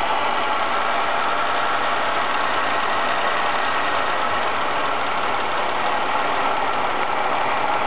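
Ford ST220's 3.0-litre Duratec V6 idling steadily, with no camshaft bearing cap rattle: the rattle is cured by the TSB 24/2009 repair.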